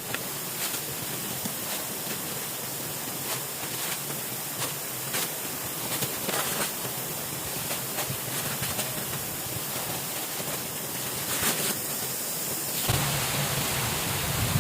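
Steady, even hiss of water with faint scattered ticks and taps. A low rumble comes in near the end.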